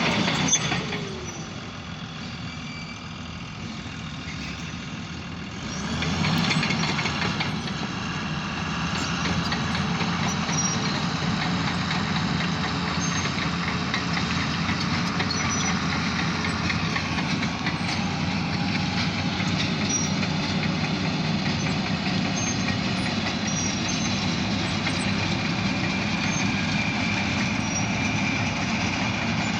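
Alco diesel locomotive engine idling, then throttling up about six seconds in and running steadily louder as the light engine move gets ready to depart.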